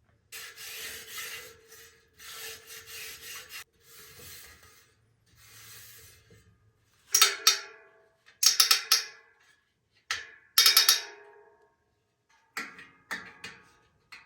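Repeated abrasive rubbing strokes, about ten in all: four longer, softer strokes, then shorter, louder ones from about seven seconds in.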